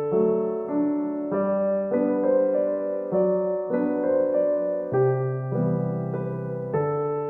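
Background piano music: a gentle, slow piano piece with soft chords and notes changing about every half second.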